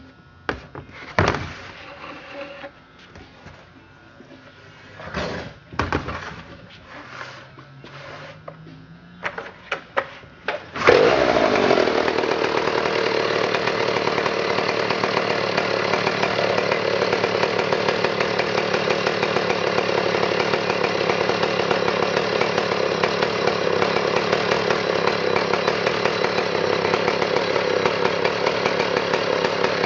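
Stihl 090 chainsaw's two-stroke engine: a series of knocks and clatters, then about eleven seconds in it starts and runs at a steady, even speed without revving.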